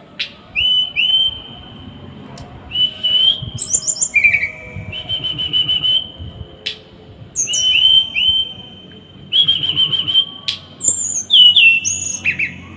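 Small songbird singing in quick, loud bursts: runs of short whistled notes held at much the same pitch, some broken into fast trills, mixed with higher sharp notes and a few sharp clicks.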